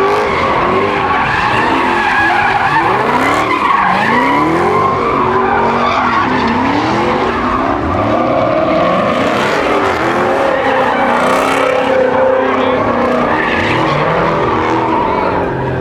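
A car's tyres squealing steadily while it drifts, its engine revving up and falling back again and again.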